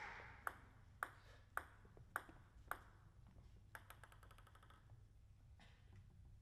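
Celluloid-style plastic table tennis ball bouncing: five sharp, evenly spaced pings about half a second apart, followed a second later by a short, quickening rattle of smaller ticks.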